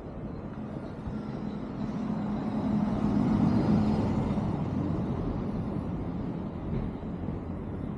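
A motor vehicle passing by: engine hum and road noise grow louder to a peak about three and a half seconds in, then fade away.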